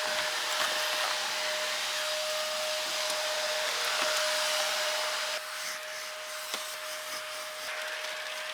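Vacuum cleaner running with a steady whine and rushing hiss as it is worked over the car's carpet, getting quieter about five and a half seconds in.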